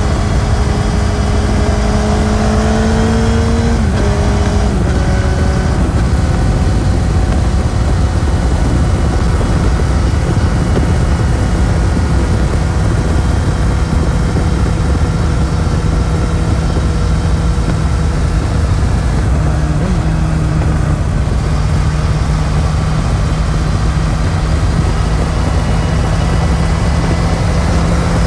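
Suzuki GSX-S1000's inline-four engine running under way on its stock exhaust, its pitch rising a little and then dropping sharply about four seconds in, after which it holds a steady cruising pitch. A dense rush of wind and road noise lies under the engine.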